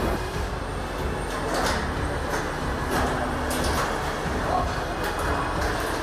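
Factory machinery noise: a steady low rumble with irregular light clicks and clunks of metal parts being handled.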